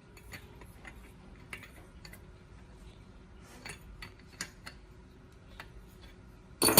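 Scattered light metallic clinks and taps, like tools and small metal engine parts being handled, a few to a second, against a quiet background, then a short loud rush of noise at the very end.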